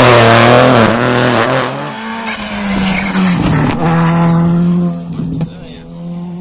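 Rally2 rally car's turbocharged four-cylinder engine at high revs, dropping in pitch as the car slows, with a brief tyre squeal about two seconds in. The engine then pulls on at a steady note and fades away.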